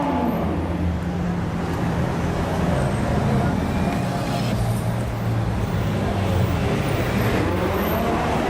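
Car engines running steadily at low revs in street traffic, a continuous low rumble with no sharp revving.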